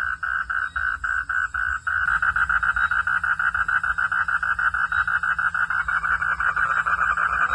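Frogs calling in a fast run of short repeated pulses, about six a second at first. About two seconds in more calls join, and the pulsing becomes denser, near ten a second.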